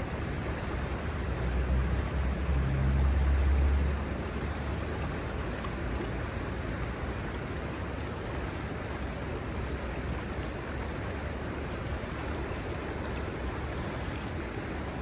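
Steady rush of river water flowing over shallows. A low rumble swells for a couple of seconds near the start, then fades back under the water sound.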